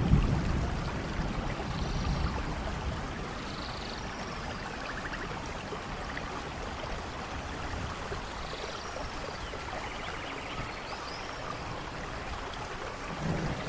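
Steady rainforest rain, with faint chirping and trilling animal calls over it. A low rumble of thunder dies away at the start, and another builds near the end.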